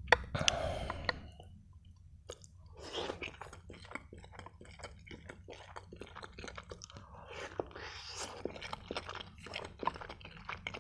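Close-miked chewing of a mouthful of macaroni and breaded chicken Kiev: wet, irregular mouth clicks and smacks with small crunches. There is a sharp click right at the start.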